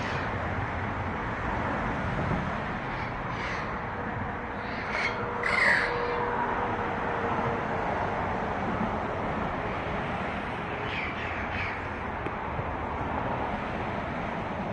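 Parrots giving a few short calls, the loudest about six seconds in and a couple more near the end, over a steady background hiss.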